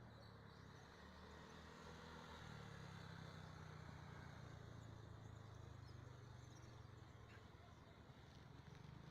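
Faint, steady low hum of a Yamaha NMAX 125 scooter engine running, its pitch shifting slightly about two and a half seconds in.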